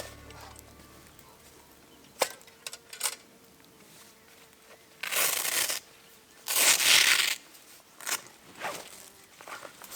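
A sharp click about two seconds in, then two short bursts of rustling noise about five and six and a half seconds in, with a few lighter knocks.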